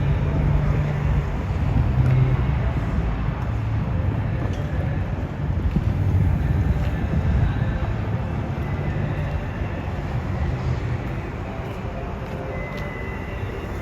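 Downtown street ambience: a steady low rumble of traffic and engines with a faint undertone of voices, easing off slightly in the second half.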